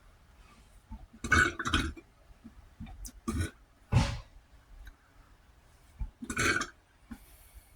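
A man burping several times in a row, about four loud burps a second or two apart, the sharpest and loudest near the middle. He puts the burping down to the spices, chili peppers and water, and to having eaten fast.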